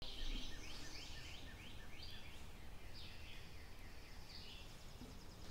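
Birds singing: quick phrases of short, high, downward-sliding notes, about three a second, pausing and starting again twice, over a faint low rumble of outdoor background noise.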